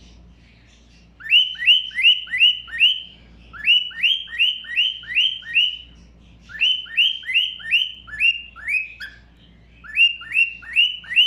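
Thick-knee (karawan) calling: bouts of loud, rising whistled notes, five to seven notes each at about three to four a second, with short pauses between bouts.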